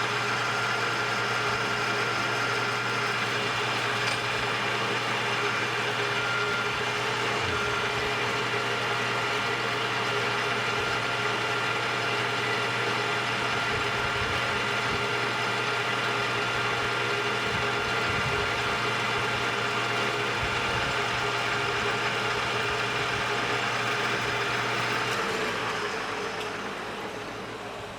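Metal lathe running steadily as it turns down the diameter of a small gearbox shaft, with a steady whine of several tones. The spindle spins up just before and starts to wind down near the end.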